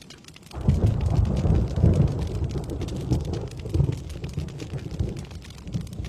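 A roll of thunder over steady rain. The low rumble rises sharply about half a second in, rolls in several swells and dies away near the end.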